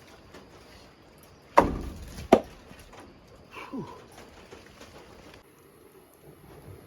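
Two sharp knocks, the first about a second and a half in and the second under a second later; the first has a short low rumble after it.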